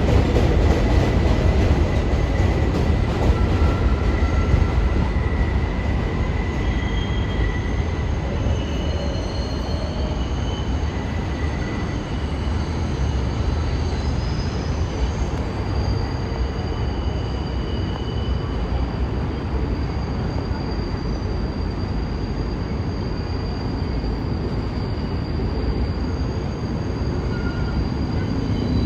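New York City subway train running on elevated track: a steady rumble, with short high wheel squeals coming and going throughout.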